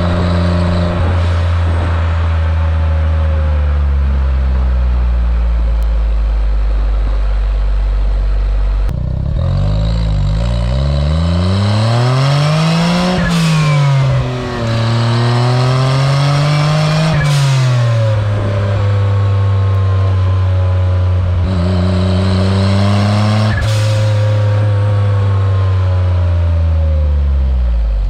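Autozam AZ-1's small turbocharged three-cylinder engine running loud through a straight downpipe exhaust with no catalytic converter, driven on and off the throttle. The revs sink slowly at first, then climb and drop several times around the middle, hold steady, and fall away near the end.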